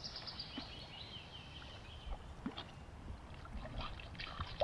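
A bird calling: a quick run of high notes that fall steadily in pitch over about two seconds. Light scattered knocks from a small boat on still water follow.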